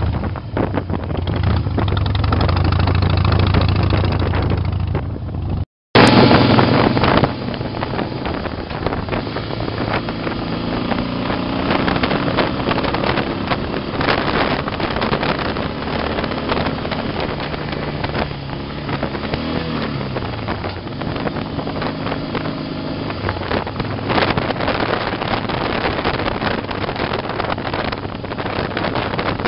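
Harley-Davidson Heritage Softail's 96-cubic-inch V-twin engine running at road speed, heard from the pillion seat with heavy wind buffeting the microphone. The sound cuts out for a split second about six seconds in, and around two-thirds of the way through the engine pitch falls and then picks up again.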